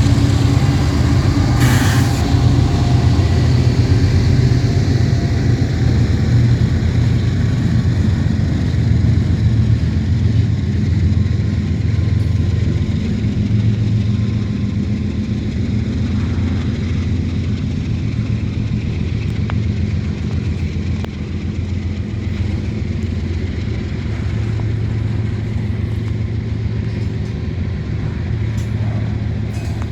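GE ES44AH diesel-electric locomotives running steadily with a loud low engine drone as the freight train goes by. There is a brief hiss about two seconds in.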